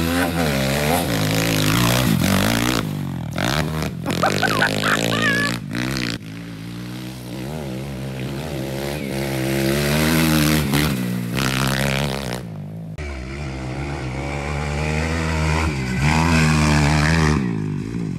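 Pit bike engine revving up and down as it is ridden around a dirt track, its pitch rising and falling with the throttle. The sound breaks off abruptly several times where short takes are cut together.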